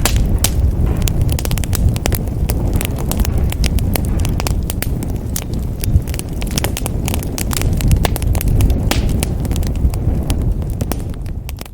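Fireplace fire crackling: a low steady rumble of flames with many sharp, irregular pops and snaps. The sound fades out near the end.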